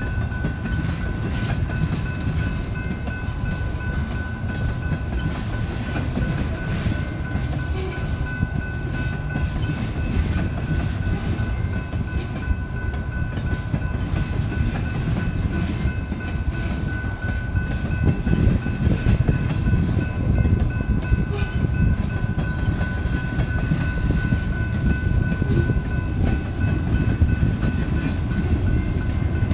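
Freight cars of a slow manifest train rolling past over a grade crossing: a steady low rumble and rattle of wheels on the rails, a little louder from about two-thirds of the way through. A steady high ringing from the crossing signal bell sounds over it.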